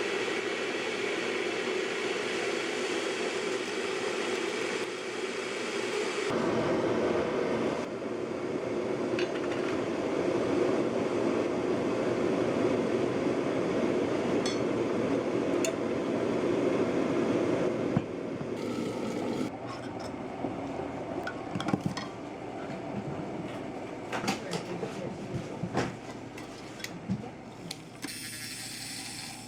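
A machine runs with a steady hum, changing slightly about six seconds in and stopping about 18 seconds in. Then light clinks and knocks follow, like dishes or utensils being handled.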